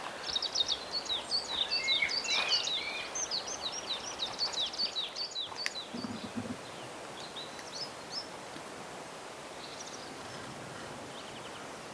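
Songbirds singing in woodland: rapid, repeated chirps and sliding whistled notes, dense for the first half and then thinning to a few scattered calls over a faint steady hiss. A short low knocking sound comes about six seconds in.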